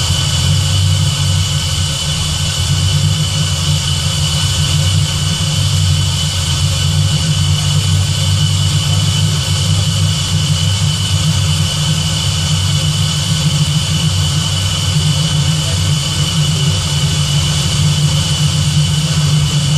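Terminator-swapped Fox-body Mustang's supercharged 4.6-litre V8 idling steadily with a thin high whine over it, left running to burp air out of the cooling system as it comes up to temperature.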